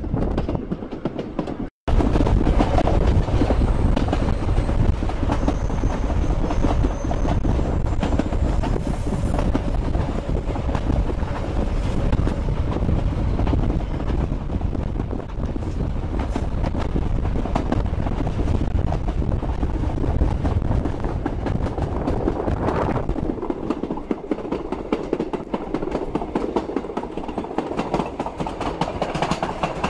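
PeruRail Andean Explorer passenger train running along the track: a steady rumble with the rapid clickety-clack of wheels over the rails. The sound cuts out for a moment about two seconds in.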